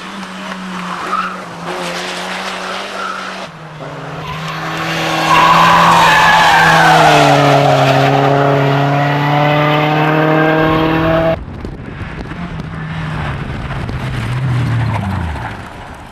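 Race car engines running with tyres squealing and skidding, across a few cut-together shots; the loudest stretch, in the middle, holds a high squealing tone that falls in pitch and then holds steady.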